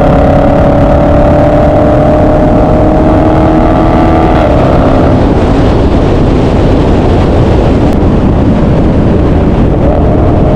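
Car engines running loudly with a dense rumble. A steady droning tone rises slowly and drops out about four and a half seconds in, then comes back near the end.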